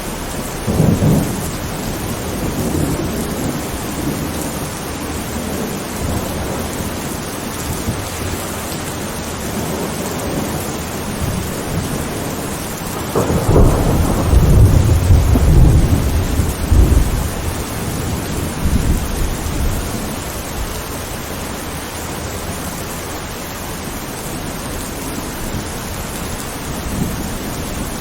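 Steady rain with thunder: a short rumble about a second in, then a louder clap that rolls on for about three seconds around the middle.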